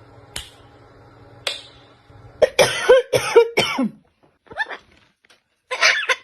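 Pet parrot making a quick run of short calls, each bending in pitch, about two and a half seconds in, a few softer ones a moment later, and another run near the end, after two faint clicks.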